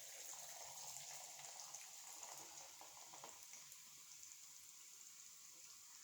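Faint, crackling fizz of a freshly poured carbonated drink in a glass, slowly dying down.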